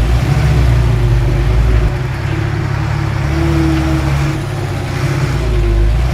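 Heavy diesel construction machinery running under load, its engine note rising and falling a couple of times.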